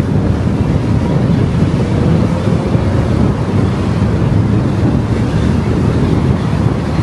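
Steady road and wind noise from a car driving along, with wind rumbling on the microphone.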